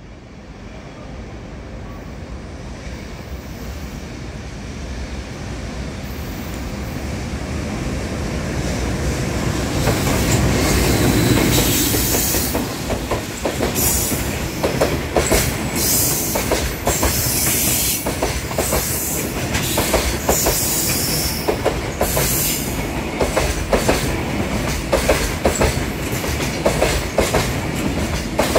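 JR Freight EH500 electric locomotive hauling Koki container wagons through a station. It grows steadily louder on the approach and peaks as the locomotive passes about 11 seconds in. After that the wagons' wheels keep up a steady run of sharp clacks over the rail joints, with bursts of high-pitched wheel noise.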